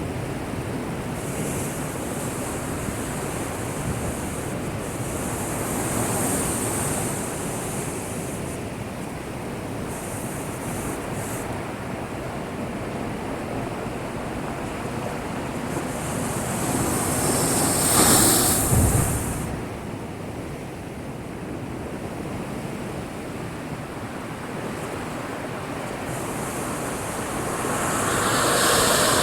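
Heavy typhoon swell surging and breaking against a harbour breakwater: a steady rush of surf, with one bigger wave crashing louder, with a low thud, about two-thirds of the way through, and another surge building near the end.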